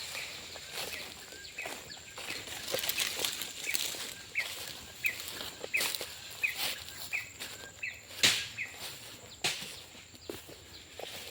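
Crackling rustles and steps in dry undergrowth, with one sharp snap about eight seconds in. Throughout, a short chirping call repeats about twice a second over a steady high-pitched insect drone; the brush cutter is not running.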